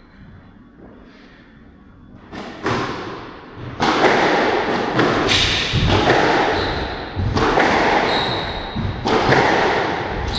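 Squash rally: the ball struck by rackets and smacking off the court walls, sharp echoing hits roughly once a second, starting about two and a half seconds in, with brief high shoe squeaks on the court floor.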